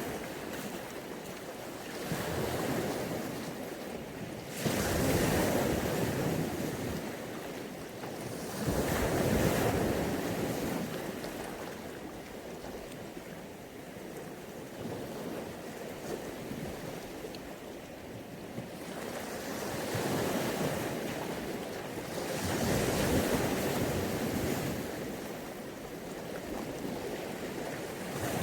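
Mediterranean Sea waves washing onto the beach, the surf swelling and falling back in slow surges every few seconds, with the louder breaks about five, nine and twenty-three seconds in.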